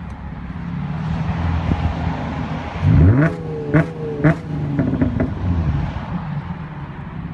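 Straight-piped 2005 Nissan 350Z's VQ35DE V6 idling, then revved sharply about three seconds in and held against the launch-control rev limit, bouncing off it three times with sharp cracks. A few lighter pops follow as it drops back to idle.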